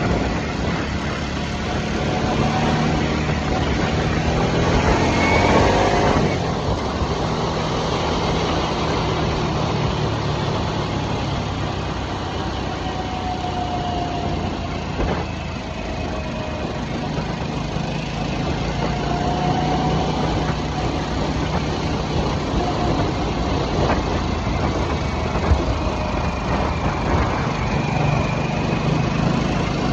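2023 Harley-Davidson Nightster's liquid-cooled Revolution Max 975T V-twin running under way. The revs rise for the first six seconds, then drop suddenly, as at a gear change, and the engine pulls on at varying speed after that.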